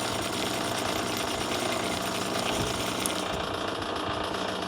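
Clausing 4210 precision cylindrical grinder running under power, its motors and hydraulic pump giving a steady hum with a fast, even mechanical rattle. The high hiss thins out about two-thirds of the way through.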